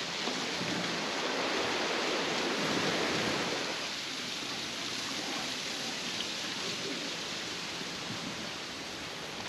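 Steady rush of running water, an even hiss that swells slightly over the first few seconds and then settles.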